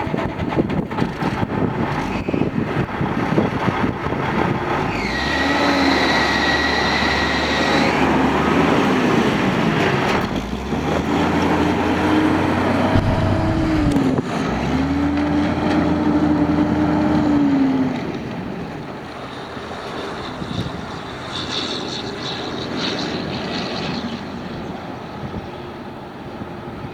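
A 2001 International truck's diesel engine running and being revved twice, each rise held for a few seconds, then dropping back to a lower, quieter run. A high steady whine sounds for a few seconds early on, and wind rumbles on the microphone.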